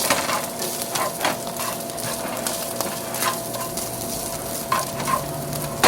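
Sausage sizzling in a frying pan, stirred with a utensil that scrapes and taps against the pan several times.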